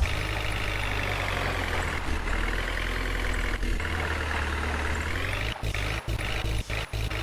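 Heavy diesel engine of a JCB backhoe or tractor running steadily. Its pitch dips slightly around the middle and rises back.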